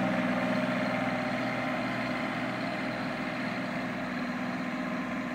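Kubota B2320 compact tractor's three-cylinder diesel engine running steadily, its level easing off slightly.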